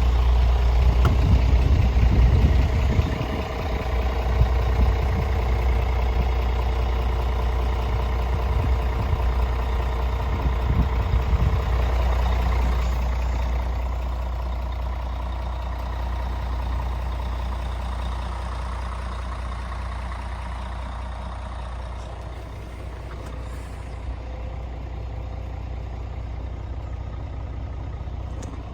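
Scania R450 truck's 13-litre inline-six diesel running steadily at low revs, with a deep hum and some uneven low knocking in the first half. It slowly gets quieter toward the end.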